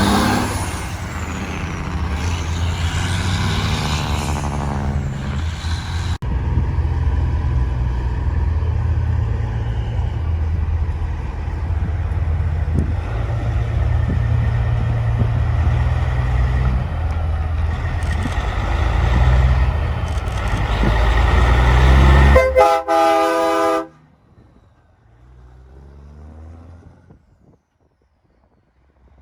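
Big truck engines running loud and low, then a truck horn sounding for about a second and a half near the end. It cuts off suddenly, and after that it is much quieter.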